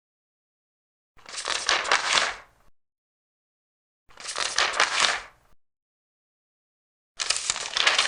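Large paper pages being turned one at a time: three crisp papery rustles about a second and a half each, roughly three seconds apart, with silence between.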